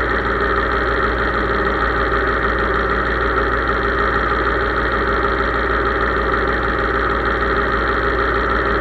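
Case IH 3220 tractor's diesel engine running at a steady, even speed.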